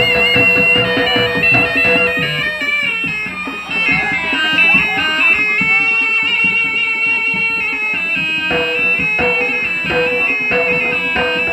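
Live jaranan music: a shrill reed pipe plays a wavering melody over held notes and busy drumming.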